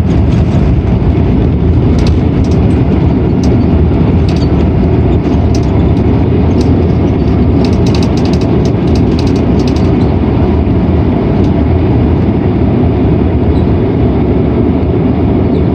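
Inside the cabin of a Boeing 767-300ER rolling on the ground after landing: a loud, steady low rumble of engines and tyres. Through the first ten seconds or so, cabin fittings make scattered light rattling clicks, then the rumble runs on smoother.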